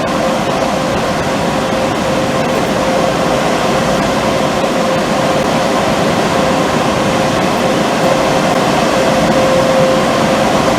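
Sonny's/PECO car wash tunnel equipment running with a loud, steady rushing noise and a faint steady hum underneath.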